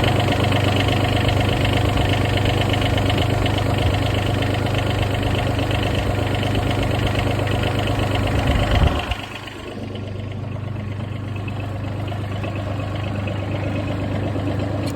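Bobcat MT100 mini skid steer's diesel engine running steadily, now starting after a new starter was fitted for a no-start. About nine seconds in it drops to a quieter, steady run.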